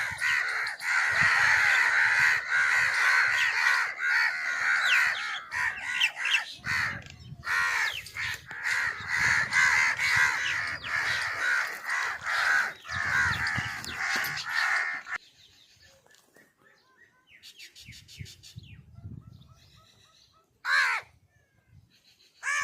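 Many crows cawing at once, their calls overlapping in a dense chorus that cuts off suddenly about two-thirds of the way through. After that come a few faint, softer calls and one more loud caw near the end.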